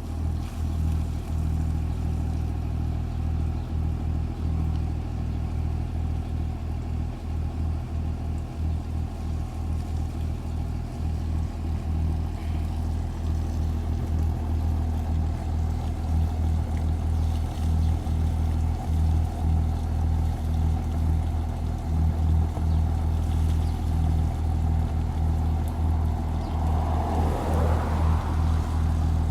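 Cummins diesel engine idling steadily through its stainless steel exhaust while water is washed through the muffler to scrub out carbon, with a brief higher sound that rises and falls near the end.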